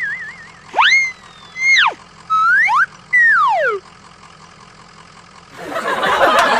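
Cartoon-style whistle sound effects: a warbling tone, then three or four tones that slide up, hold and slide down, the last falling away. A noisy jumble of sound comes in near the end.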